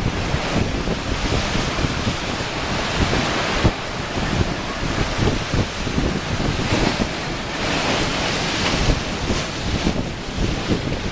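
Ocean waves lapping and washing against shoreline rocks, the surf hiss swelling and easing in surges, with wind buffeting the microphone.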